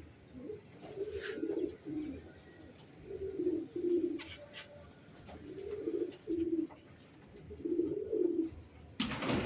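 Domestic pigeon cooing, four low coo phrases about two seconds apart. Near the end comes a sudden burst of rustling noise.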